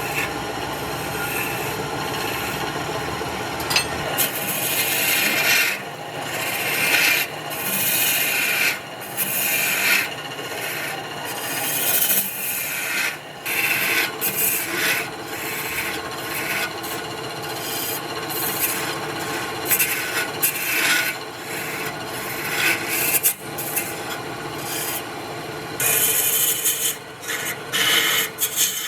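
Wood lathe running with a steady motor hum, while a tool scrapes the spinning wood in repeated irregular passes.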